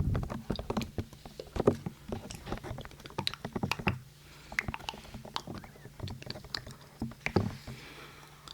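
Irregular quick taps and clicks close to a binaural microphone, several a second, as an ASMR tapping trigger.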